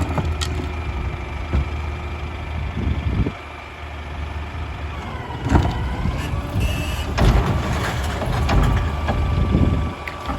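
Front-load recycling truck with a Curotto-Can cart arm working, its diesel engine running steadily. Loud clanks and bangs come about halfway through and again a couple of seconds later, and a faint steady whine is heard near the end.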